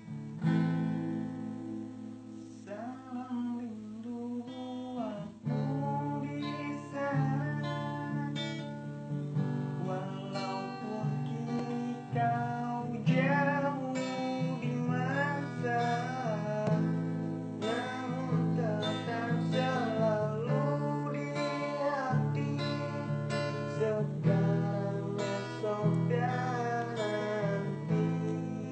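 Acoustic guitar strumming chords, accompanying a solo voice singing a slow melody that enters a couple of seconds in.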